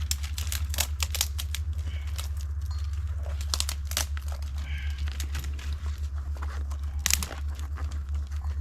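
Newly lit campfire of dry tinder and kindling crackling, with irregular sharp pops and snaps over a steady low hum.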